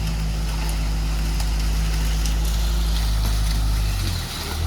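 Tractor engine running steadily under load while clearing brush, its note briefly dipping and shifting near the end.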